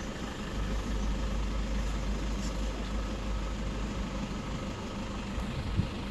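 A safari vehicle's engine idling with a steady low hum.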